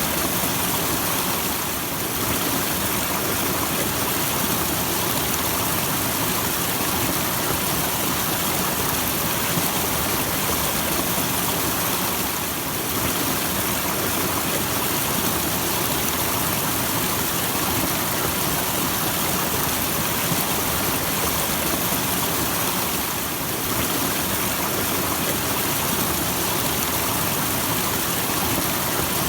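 Small natural waterfall: water falling and splashing in a steady, even rush, with brief slight dips in level about every ten seconds.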